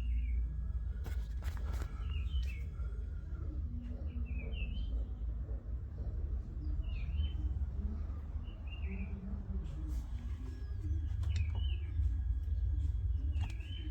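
A small bird chirping again and again, short sharp chirps every second or two, over a steady low rumble, with a few sharp clicks.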